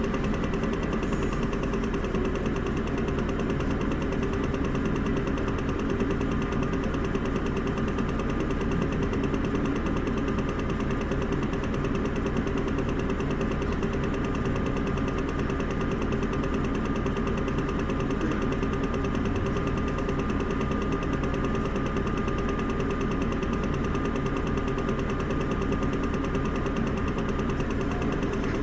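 Isuzu Erga city bus's diesel engine running at a steady, unchanging speed: an even hum with no revving or gear changes, and a faint steady whine joining partway through.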